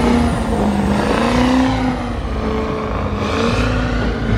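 Vehicle engine running loud and steady, its pitch wavering up and down as the throttle is worked.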